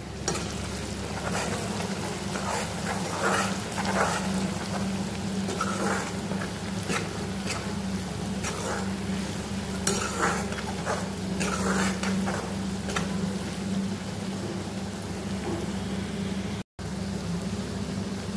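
Pork pieces sizzling and bubbling in a thick gravy in a metal kadai, with a spatula stirring and scraping against the pan at irregular moments. A steady low hum runs underneath, and the sound cuts out for an instant near the end.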